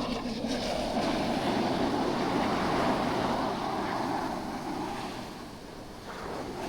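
Sea surf: a wave washing in, swelling just after the start, holding for a few seconds and fading away near the end.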